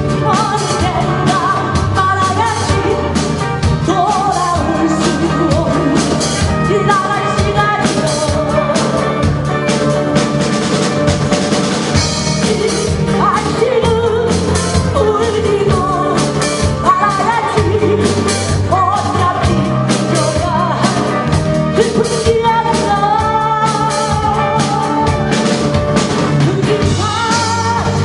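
Amateur band playing live: a singer over drum kit, bass and guitar in a steady rock-pop beat.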